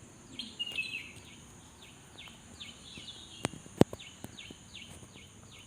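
A small bird chirping over and over in short, falling notes, about three a second. Two sharp clicks come about three and a half seconds in.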